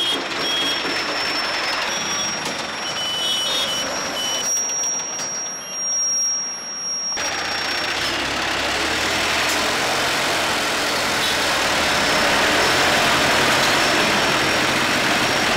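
Workshop noise with a steady high whine, cutting off abruptly about seven seconds in. A truck engine then runs steadily with a low rumble.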